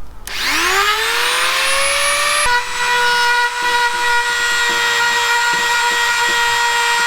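Small power grinder switched on, its whine rising as it spins up for about two seconds, then running at a steady high pitch. It is being used to grind out hairline cracks in a fibreglass boat's gelcoat ready for filling.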